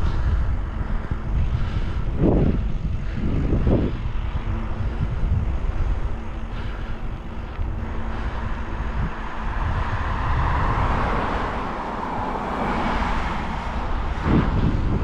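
Wind buffeting the microphone of a moving bicycle rider, a steady low rumble. An engine passes, swelling up and fading away over the middle and later part.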